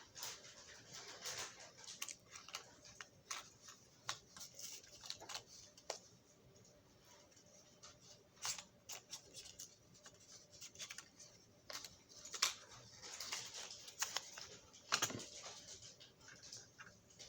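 Small metal drill bits clicking and rattling as they are picked through and handled, an irregular run of light clicks and taps, a few of them louder.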